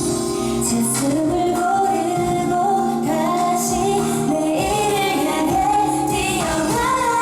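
A woman singing a pop song over instrumental accompaniment, her melody gliding between held notes.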